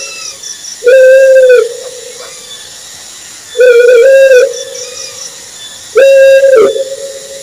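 Owl calling: three loud, even-pitched, reedy calls, each under a second long and a few seconds apart, the middle one wavering in pitch.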